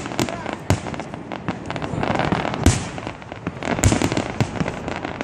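Fireworks display: shells bursting in the sky, heard as a rapid, irregular series of sharp bangs, about one every half second.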